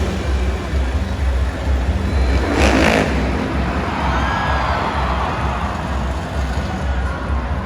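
Motocross motorcycle engines revving, with a noisy burst about three seconds in, over a steady bass beat from loudspeaker music.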